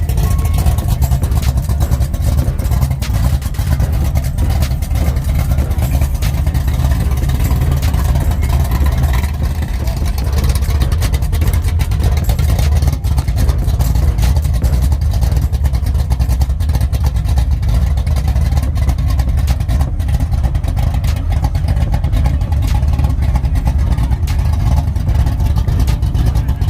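A vehicle engine running, a steady deep rumble.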